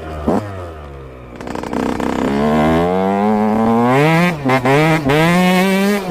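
Yamaha YZ125's single-cylinder two-stroke engine: a quick blip of the throttle, then the revs climb steadily, dip briefly twice and hold high.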